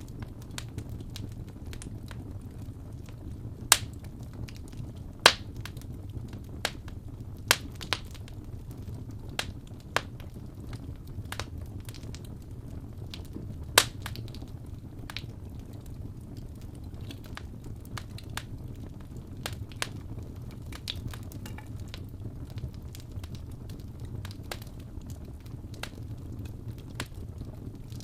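Wood fire crackling in a fireplace: a steady low rumble of flames with irregular snaps, and a few louder pops from the burning logs.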